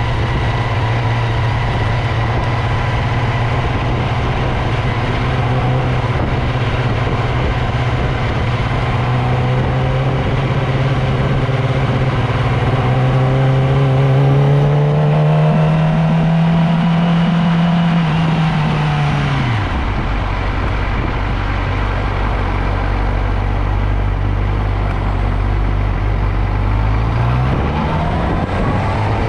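Motorcycle engine running under way, its pitch rising gently, then falling quickly to idle about two-thirds of the way in as the bike slows to a stop. It idles steadily for about seven seconds, then revs up again near the end as the bike pulls away, over steady road and wind noise.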